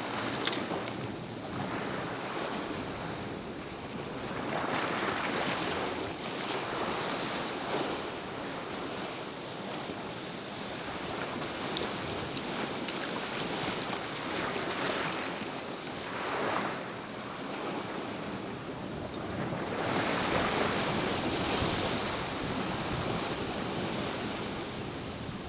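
Sea waves washing in, swelling and easing every few seconds, with wind buffeting the microphone.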